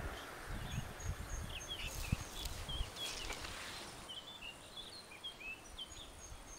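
Small birds chirping and twittering in many short high notes, with a low uneven rumble underneath in the first half and a couple of light clicks about two seconds in.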